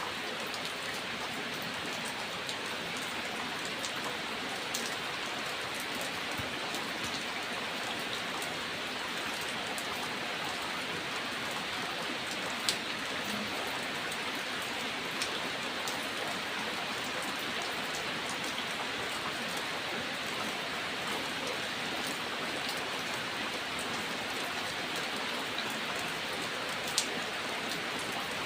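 Steady rain falling, an even hiss with a couple of sharp ticks standing out, one about halfway through and one near the end.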